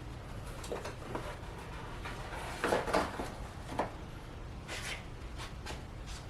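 Light, scattered knocks and scrapes of a camshaft being worked into the freshly installed cam bearings of a Ford 292 Y-block engine block, metal on metal.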